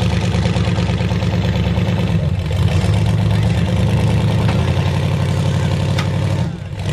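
Mud truck engine running loud and steady, easing off briefly about two seconds in and again near the end.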